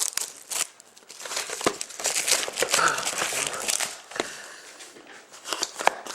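Plastic wrapping on a sealed trading card box crinkling and tearing as it is opened by hand, in irregular rustles and crackles.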